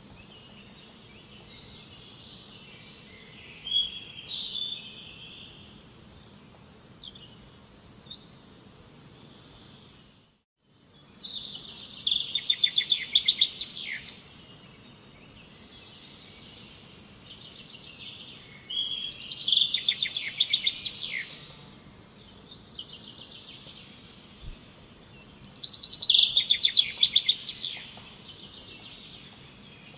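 Birds singing over steady background noise. A loud trilled phrase repeats three times, about every seven seconds, with smaller chirps between, and the sound cuts out briefly about ten seconds in.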